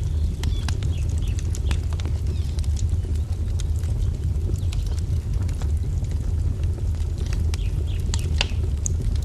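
Wood fire crackling, with frequent sharp pops and snaps over a steady low rumble. A few short bird chirps come through, mostly near the end.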